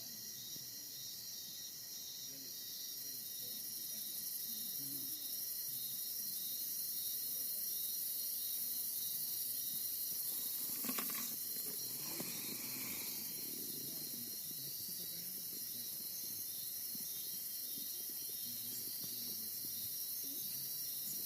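Rainforest insect chorus, a steady high-pitched layered buzzing and trilling of crickets and cicada-like insects, with a brief click and a short call about halfway through.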